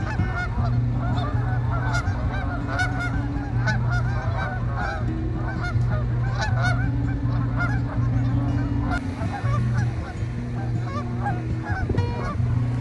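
A large flock of Canada geese honking, many short calls overlapping without a break, over a low steady hum.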